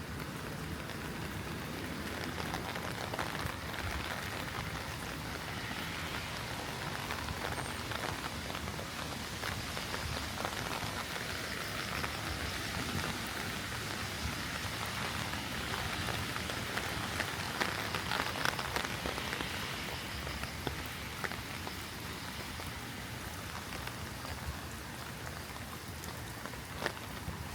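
Heavy rain falling steadily, an even hiss spattered with sharp drop ticks, swelling a little in the middle.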